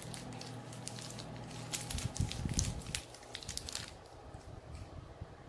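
Plastic wrapper of a Galaxy Ripple chocolate bar crinkling as it is handled and peeled back, a run of quick crackles that stops about four seconds in, with a few dull handling bumps about two seconds in.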